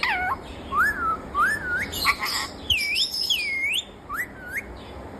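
Pet parrot giving a run of short whistled calls, each gliding up or dipping and rising in pitch, with a brief harsher chatter about two seconds in.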